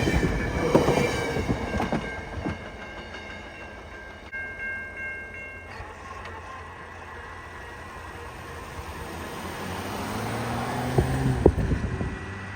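VIA Rail passenger train rolling past with wheel clatter over the rail joints, fading as it moves off. About four seconds in, its horn sounds a short chord in the distance. Near the end a low rumble builds, with a few sharp knocks.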